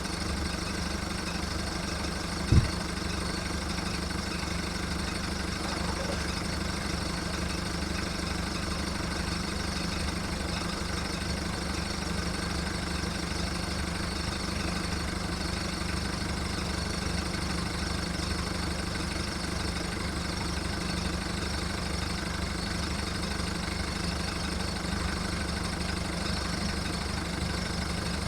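VW Golf mk1's 1.9 turbo diesel four-cylinder idling rough and steady while it warms up after a cold start following five months of storage. A single short sharp knock sounds about two and a half seconds in.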